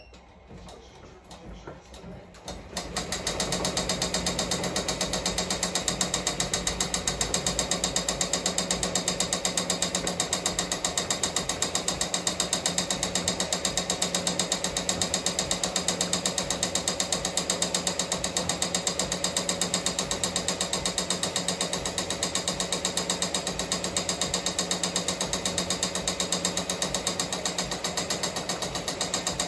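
Multi-needle embroidery machine, a Ricoma MT-1501, starting up about three seconds in and stitching at a fast, even rhythm of needle strokes with a steady hum underneath.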